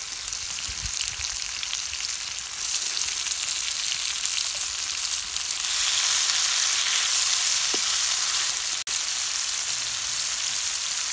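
Sliced onions and tomatoes sizzling in hot oil in a frying pan while a spatula stirs them. The steady sizzle steps up in loudness about two and a half seconds in and again near the middle.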